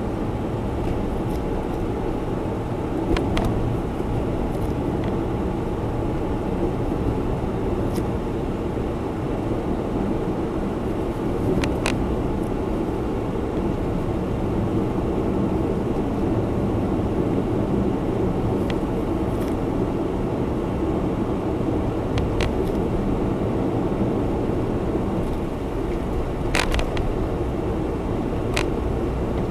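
Honda Zest Spark kei car being driven: steady engine and road noise heard inside the cabin, with a few light clicks.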